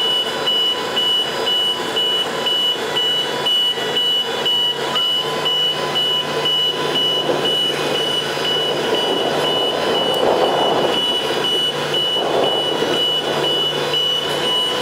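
Warning beeper of a 700-ton mobile boat hoist sounding a steady high beep about twice a second over the hoist's running engine. A low steady hum joins about four and a half seconds in.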